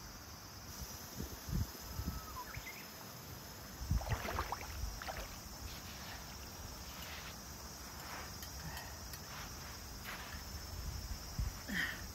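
Steady, high-pitched chorus of summer insects, with scattered short rustles and crunches close by, strongest about four seconds in.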